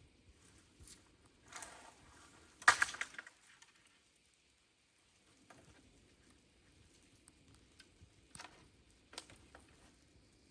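A few short clicks and knocks, like things being handled, the loudest a brief rattle about a quarter of the way in, with fainter ticks later.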